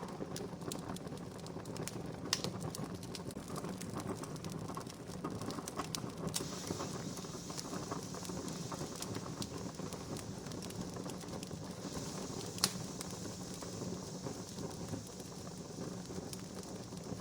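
Wood fire crackling steadily with many small snaps and two sharper pops, one a couple of seconds in and a louder one about two-thirds of the way through.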